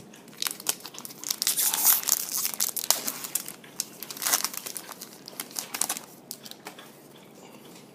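A football trading card pack wrapper being torn open and crinkled by hand, a dense run of crackling and rustling that dies down about six seconds in.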